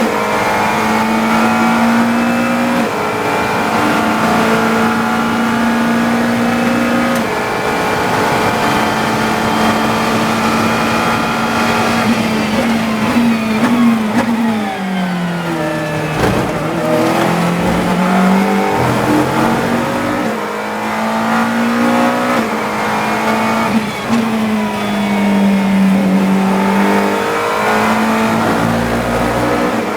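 GT3 race car engine at racing speed, heard onboard. It holds high revs with brief breaks at gear changes, drops in steps through several downshifts under braking near the middle, then pulls back up through the gears, with another brake-and-accelerate near the end.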